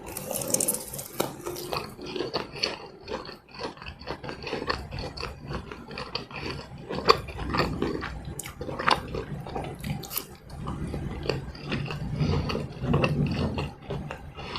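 Close-miked chewing of fried snacks dipped in sambal: crisp crunches and wet mouth smacks in quick irregular succession. A short burst of crackling hiss comes in the first couple of seconds.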